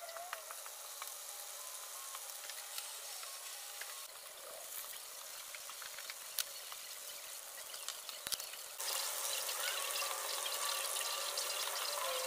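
Battered zucchini and onion rings deep-frying in a skillet of hot canola oil: a steady sizzle with scattered crackles and pops, louder from about nine seconds in.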